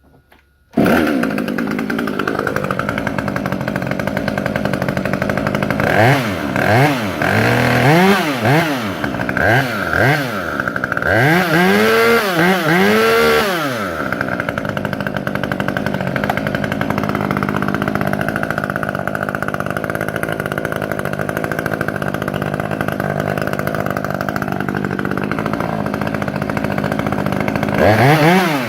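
Ported Husqvarna T540 top-handle two-stroke chainsaw with a custom exhaust, firing up about a second in and running. It is revved hard in a series of quick throttle blips, settles back to idle, and is blipped again near the end.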